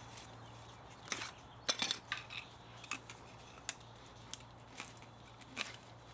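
Irregular metallic clinks and taps of parts and hand tools being handled while an old spa motor is dismantled for scrap, a cluster of them about a second in, then single taps. A steady low hum runs underneath.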